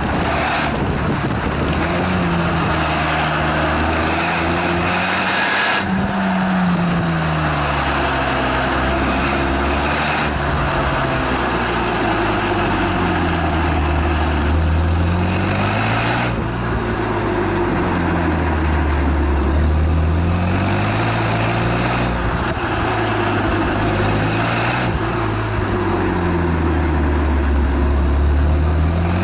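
Renault Megane Estate GT220's exhaust note under hard driving, the revs climbing and falling again and again as it accelerates, shifts and slows. Recorded close to the tailpipe.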